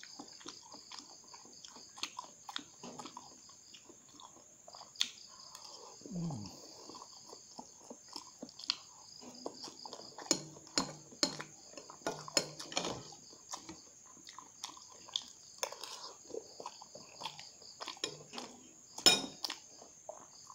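Close-up eating of instant noodles: wet chewing, mouth smacks and clicks, and slurps as spoonfuls of noodles are taken in. A steady high-pitched trill runs underneath, and one sharp click near the end is the loudest sound.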